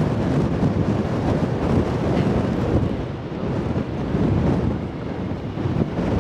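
Strong wind buffeting the microphone: a loud, uneven gusting noise, heaviest in the low end, easing a little about three seconds in.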